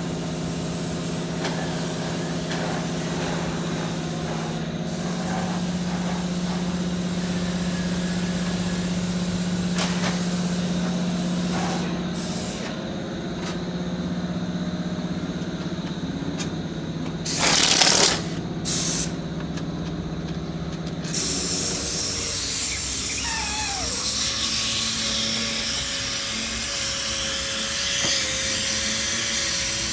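Workshop machinery: a steady low machine hum, two short loud hissing blasts past the middle, then a power tool running with a whirring tone that drops and then holds steady.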